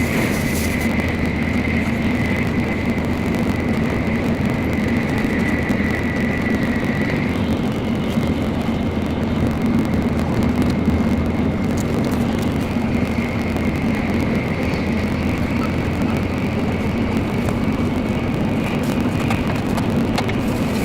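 Steady running noise of a Shinkansen Nozomi high-speed train heard inside the passenger cabin: a constant rumble with a thin high whine over it that shifts slightly in pitch about a third of the way through.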